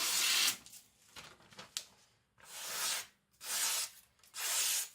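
Freshly sharpened nakiri slicing through paper in a sharpness test: four main short, hissing cuts about a second apart, with fainter strokes between.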